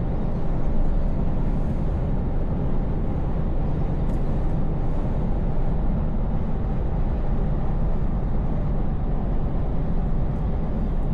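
Scania V8 truck engine running steadily under way, a low even drone with road noise and no change in pitch.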